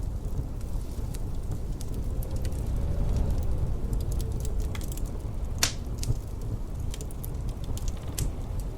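Wood fire crackling in a fireplace with scattered sharp pops, one louder pop a little past halfway, over a steady low rumble of wind.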